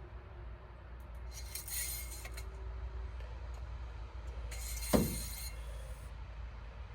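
Engine oil dipstick sliding in and out of its tube during an oil-level check: two short metallic scrapes, with a sharp click about five seconds in as it seats or comes free.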